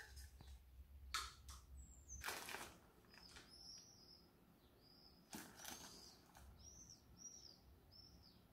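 Faint bird chirping: short high chirps repeated about twice a second, starting about three seconds in. A few soft scrapes and rustles come from a spoon scooping flour into a yogurt cup.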